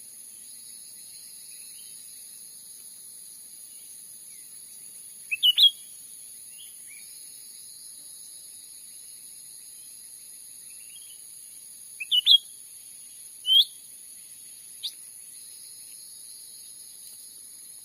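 Cucak ranting giving short, sharp chirping calls: a quick run of three notes about five seconds in, another run of three about twelve seconds in, then two single notes, over a steady high drone of insects. It is a bird-lure call used to draw wild birds in.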